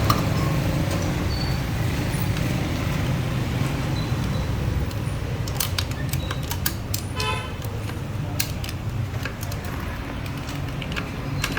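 Steady low mechanical rumble, with a few sharp metallic clicks about six to eight seconds in and a short high toot at about seven seconds.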